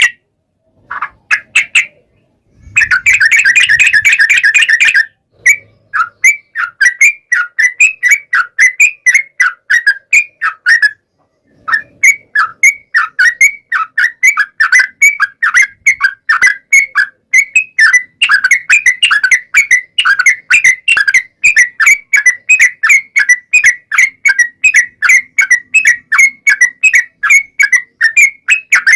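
Yellow-vented bulbul (trucukan) singing energetically: a brief burst of dense, rapid chattering, then a long run of quick repeated whistled notes, about three a second.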